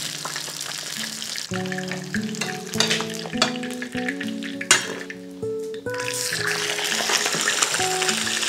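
Fish frying in hot oil in a pan, sizzling, with a few clicks and knocks of a utensil in the first half; the sizzle drops away for about a second near the middle and then comes back. Background music plays throughout.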